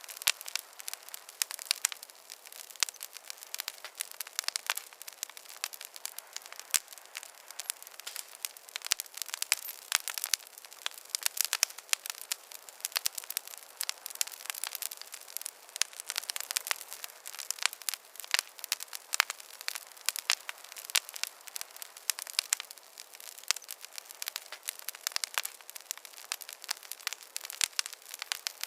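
Wood fire crackling in a fireplace: a dense, irregular stream of sharp pops and snaps over a faint hiss, with no low rumble.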